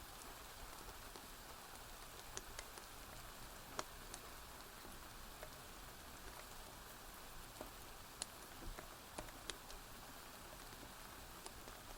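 Steady rain falling, with a few sharp crackles and pops from a wood fire.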